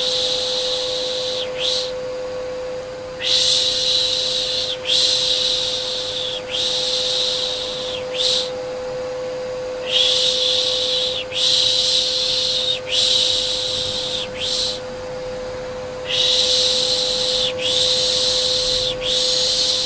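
Rhythmic 'shhh' shushing, each hiss lasting about a second and a half and coming in runs of about three with short pauses between runs, over the steady hum of a running vacuum cleaner.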